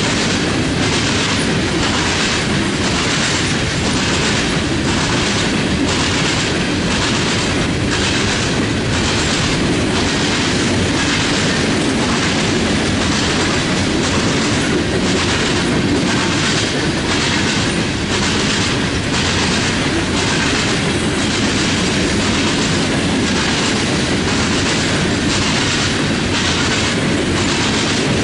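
Freight train cars rolling past, wheels clacking over rail joints in a steady, even rhythm over a continuous rumble.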